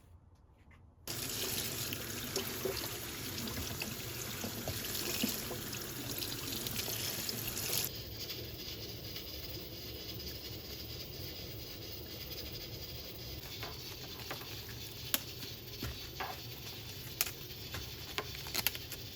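Water running from a kitchen tap into a sink, starting suddenly about a second in; its sound turns duller about eight seconds in, with scattered light clicks and knocks over it after that.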